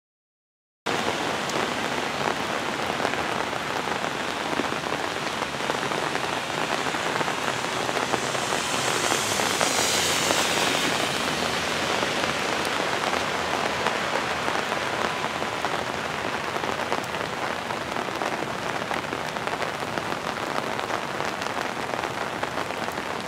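Steady rain falling, with rainwater running off a paved parking lot. It starts abruptly about a second in, and the hiss swells briefly around ten seconds in.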